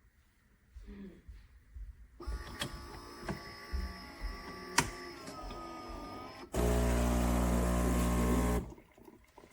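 Philips 4200-series automatic espresso machine running a brew cycle: a mechanical whir with a few clicks for about four seconds, then a much louder steady buzz for about two seconds that stops suddenly.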